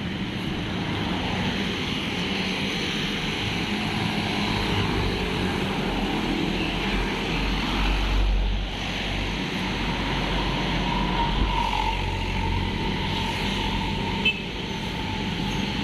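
Street traffic: a steady rumble of passing motor vehicles, with a heavier, deeper vehicle going by about eight seconds in. There is a brief sharp click near the end.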